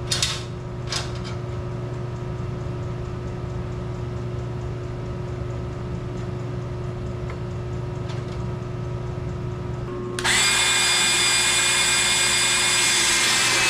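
A handheld electric power tool starts abruptly about ten seconds in and runs at full speed with a loud, high-pitched whine. Before that there is only a steady low hum with a few clicks of metal parts being handled near the start.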